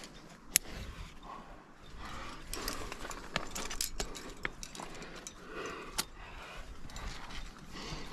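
Metal climbing hardware on a harness (carabiners, quickdraws, cams) clinking in a run of sharp clicks as the climber moves, the loudest a little under a second in, with a low rustle between.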